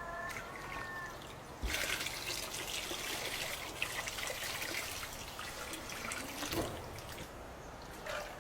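Water trickling and splashing, growing louder and fuller from about two seconds in, then easing off near the end. A short call with several stacked tones sounds in the first second.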